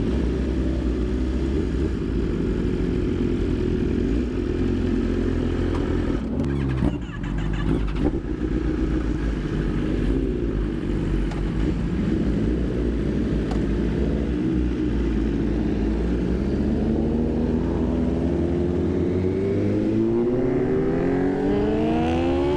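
Superbike engine running under way, with wind noise over the microphone. There is a brief dip with a few clicks about seven seconds in, then the revs climb steadily over the last few seconds as it accelerates.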